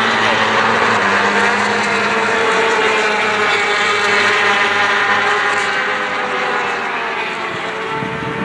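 Several racing motorcycle engines running together at once on track, loud and steady, easing off a little near the end.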